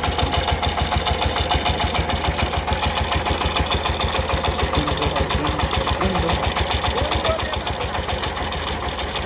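Single-cylinder diesel engine of a Sifang power tiller running steadily with a rapid, even chugging beat, easing off slightly in level near the end.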